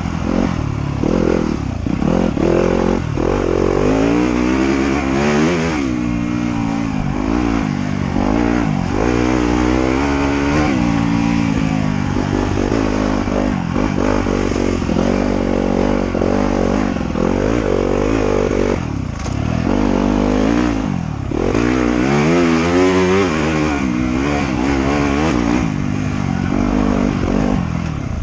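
Trail motorcycle engine running under load, its pitch climbing and dropping over and over as the throttle is opened and closed.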